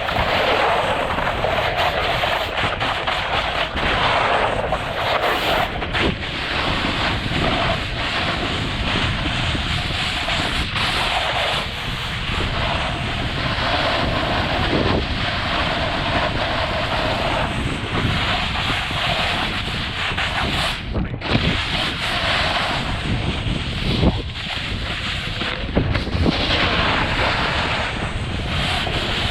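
Wind buffeting the microphone during a fast downhill descent on snow, mixed with the steady scrape and hiss of edges carving over packed snow, with a few sharp clatters along the way.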